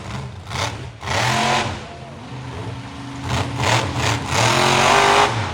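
Monster truck engine revving hard in repeated surges, its pitch rising and falling as the throttle is blipped and released.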